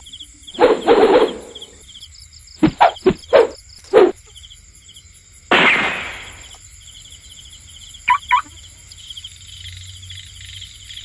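Insects chirping steadily in quick, evenly repeating pulses. Over them come several loud short noises: a scuffle near the start, four quick knocks a few seconds in, a louder noisy burst near the middle, and two short ticks later on.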